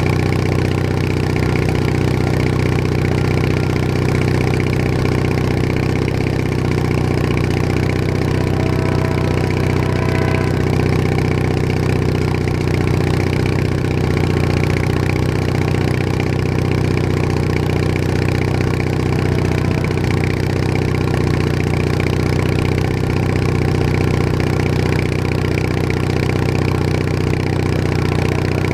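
Bolens HT20 garden tractor's engine running at a steady speed as the tractor cruises along.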